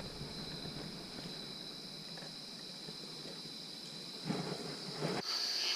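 A steady, high-pitched chorus of insects chirring in the dark, with a brief soft noise about four seconds in.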